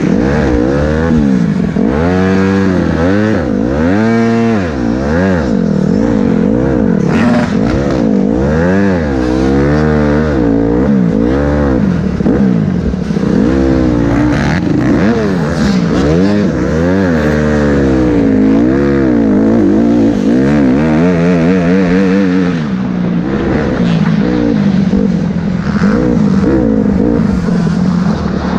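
Motocross bike engine revving up and dropping back over and over, its pitch rising and falling about once a second as the throttle is worked through the ride.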